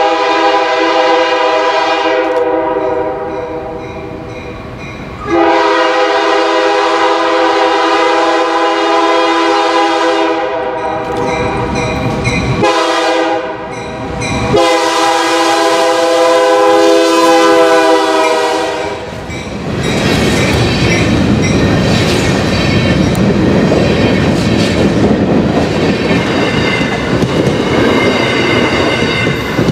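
Diesel locomotive's multi-chime air horn sounding a grade-crossing signal: long blasts, then a short one, then a last long one, ending about 19 seconds in. The train then passes close by, wheels clattering steadily over the rail joints as the bi-level passenger coaches go past.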